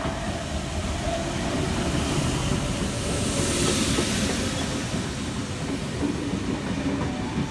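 V-set double-deck intercity electric train rolling into the platform with a steady rumble, and a swell of high hiss about three to four seconds in.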